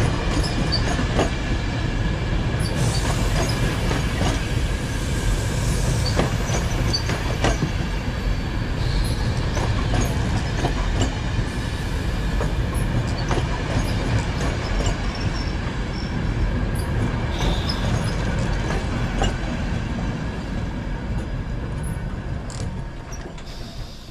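Train running on the rails with a steady low rumble and frequent clacks of wheels over rail joints. A couple of brief high wheel squeals ring out. The sound fades away near the end as the train moves off.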